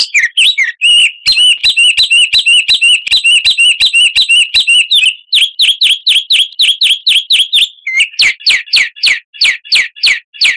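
Songbird singing a loud, fast series of repeated high chirps, several each second. It switches to a different, downward-sweeping chirp about five seconds in and changes again near eight seconds. This is a lure song used to provoke caged birds into singing.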